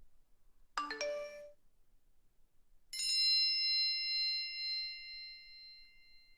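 Electronic chime sound effects: a short run of quick notes, then about two seconds later a single bell-like ding that rings on and slowly fades.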